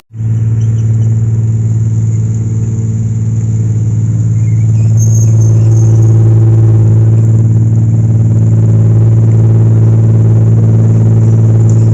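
Dump truck's diesel engine running steadily with a loud low drone.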